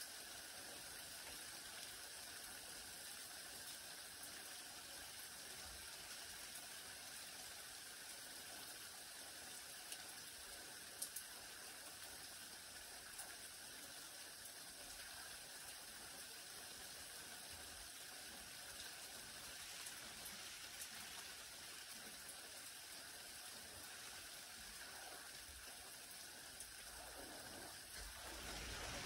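Light rain falling on garden leaves and ground: a faint, steady hiss with a couple of sharper drip taps about a third of the way in. The hiss grows louder just before the end.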